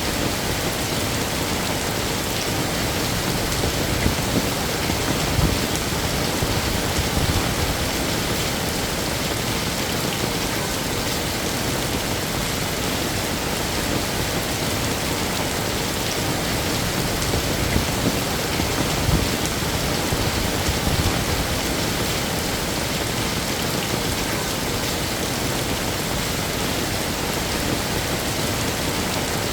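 Heavy rain falling steadily, a dense even hiss of drops on hard surfaces, with a few brief louder low swells about four to six seconds in and again past the middle.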